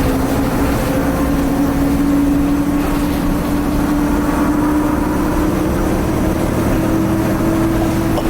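A 2010 Nova Bus LFS articulated bus's Cummins ISL diesel engine pulls under load, with the turbo whine rising slowly in pitch as the bus gathers speed. Heard from inside the bus.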